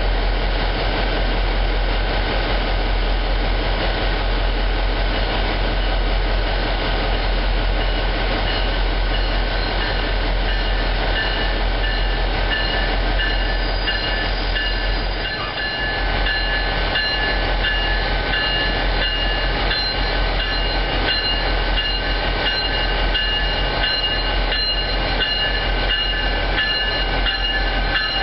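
A diesel locomotive running close by and an NJ Transit Multilevel commuter train rolling into the station beside it. From about halfway in, a steady high squeal rides over the rumble of the train.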